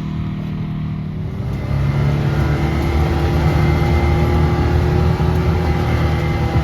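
Can-Am Maverick X3 Max side-by-side's turbocharged three-cylinder engine accelerating away. Its pitch rises and it gets louder about two seconds in, then it runs steadily under load.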